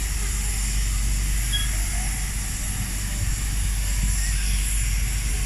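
Pacific steam locomotive letting off a steady hiss of steam over a low rumble.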